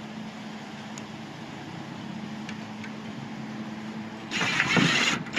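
Power drill driving a screw into sheet-metal roofing flashing, a loud grinding burst lasting about a second near the end, over a steady low hum.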